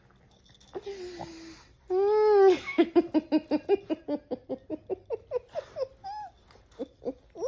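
A voice gives a short steady whine, then one long arching call, followed by a run of short rapid calls, about five a second, that fade away.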